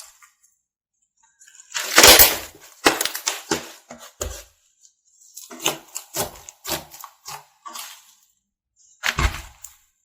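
Slime being squeezed and pressed by hand, giving irregular clusters of sharp pops and crackles, the loudest burst about two seconds in.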